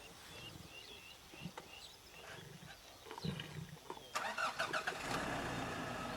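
A game-drive vehicle's engine starts about four seconds in and keeps running, after faint high chirps and a few low thuds.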